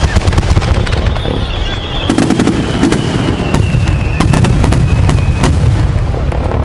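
Aerial fireworks going off: many sharp bangs and crackles in quick succession over a heavy, continuous rumble. Through the middle a long high whistle slides slowly down in pitch.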